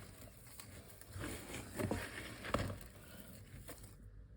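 Faint scraping and a few soft taps of a spoon mixing moist soft food of chopped vegetables, seeds and egg food in a container.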